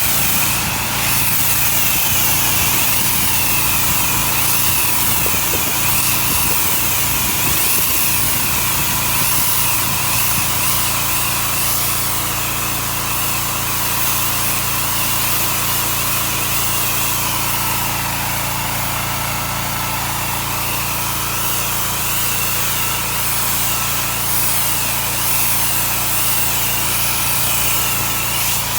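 Pressure washer running steadily, its engine humming under the hiss of a high-pressure water spray that swells and fades in waves.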